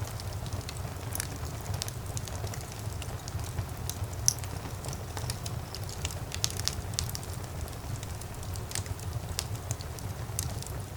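Wood fire burning in a fireplace: a steady low rumble of the flames with irregular sharp crackles and pops, one louder pop about four seconds in.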